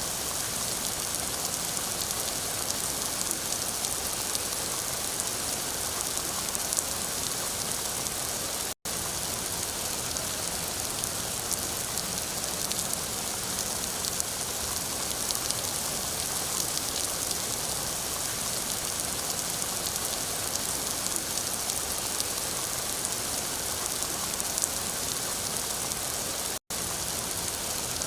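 Steady rain falling, an even hiss with the patter of drops. The sound cuts out for an instant twice, about 9 and 27 seconds in.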